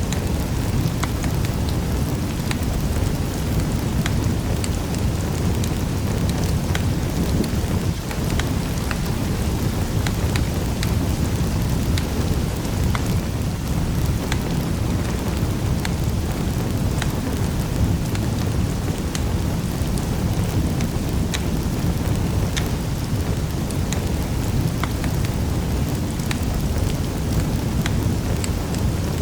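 Wood fire burning in a fireplace: a steady low rumble with frequent small crackles and pops at irregular intervals.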